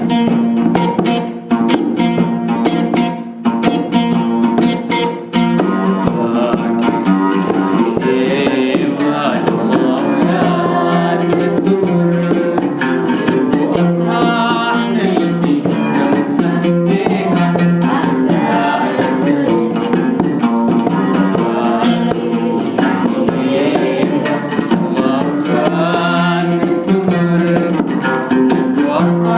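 A plucked string instrument plays a run of quick notes, and about five seconds in singing begins over it, going on with the instrument accompanying.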